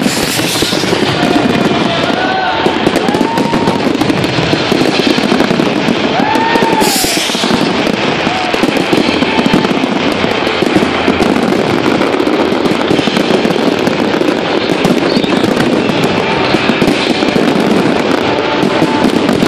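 Fireworks display: a dense, continuous crackle and popping of bursting shells, with a few short rising-and-falling whistles in the first seven seconds.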